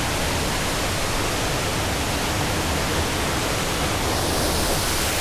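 Steady, even rush of a 31-metre rainforest waterfall. Its flow is up after morning rain, in the vlogger's own guess.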